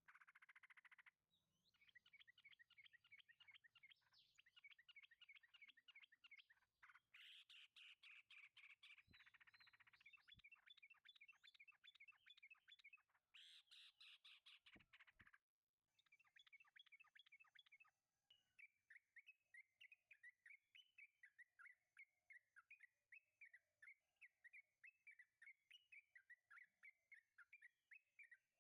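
Faint yellow-vented bulbul song: long, rapid runs of short chattering notes, the 'ropel' song used as a lure for other bulbuls. The runs break off abruptly a couple of times, and the last part settles into a steadier run of about four notes a second.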